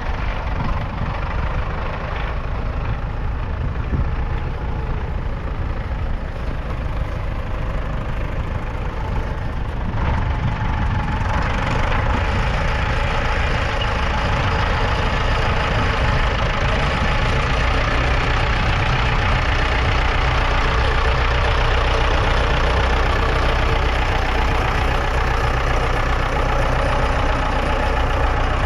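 Ford 6600 tractor's 4.2-litre four-cylinder diesel engine running steadily, growing louder about ten seconds in and holding there.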